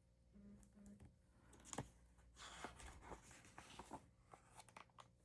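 Near silence with faint, scattered rustles and clicks of a paperback picture book's pages being handled.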